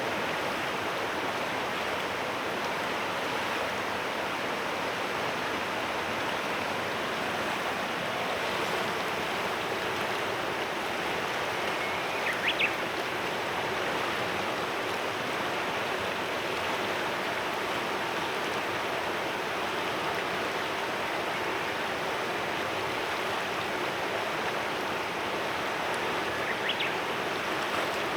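Mountain river running steadily, a continuous murmur of flowing water. A bird chirps briefly about halfway through and again near the end.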